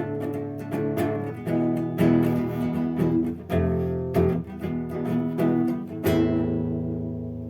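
Acoustic guitar strumming chords in a down-and-up pattern, ending with one last chord struck about six seconds in and left ringing to fade out.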